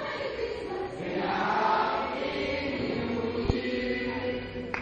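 A choir of voices singing together in a church cantata, holding sustained, wavering notes.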